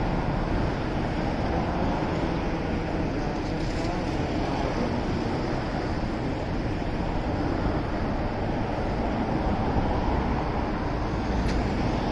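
Steady noise of a motorcycle on the move: engine and tyre noise mixed with wind on the microphone.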